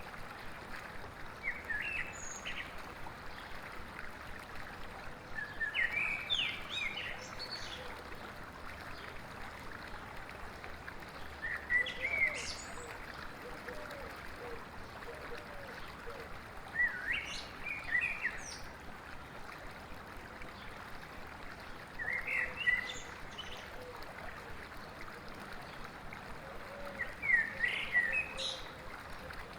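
A songbird singing short phrases of quick chirping notes, six times, about one every five seconds, over the steady rush of river water.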